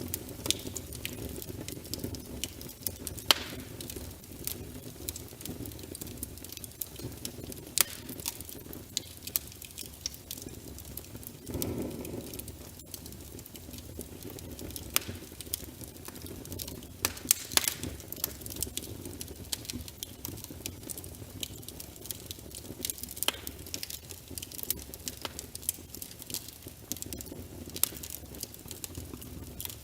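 Wood logs burning in a fireplace: irregular sharp crackles and pops over a low steady rumble of the flames, which swells briefly about twelve seconds in.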